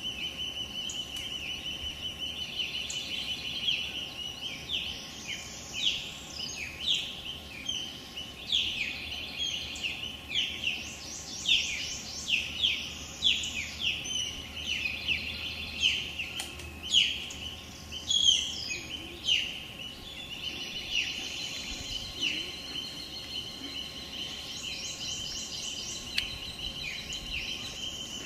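Small birds chirping, many short, quick down-slurred calls overlapping, busiest through the middle, over a steady high-pitched buzz.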